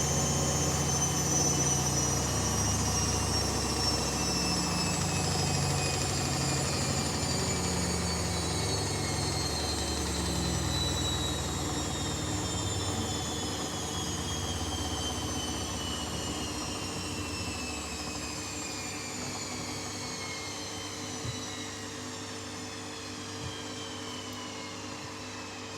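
Hoover Dynamic Next washing machine's drum and motor spinning down after the final spin, the motor whine falling steadily in pitch and fading. Two small clicks come near the end.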